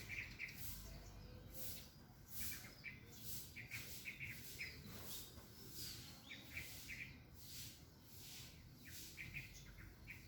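Small birds chirping in short, repeated calls, with a high hiss behind them that pulses at a regular beat.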